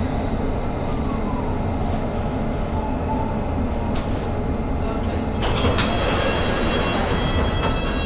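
London Underground Hammersmith and City line train running, heard from inside the carriage: a steady rumble, with high-pitched squealing tones that come in about five and a half seconds in and hold.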